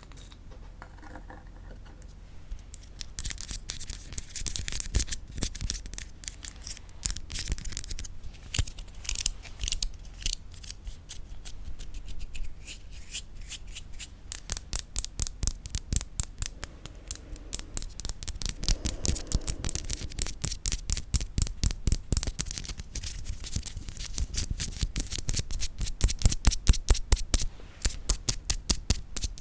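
Quick, crisp tapping on wooden objects: a long run of small taps, sparse at first and then several a second in a dense, rhythmic stream.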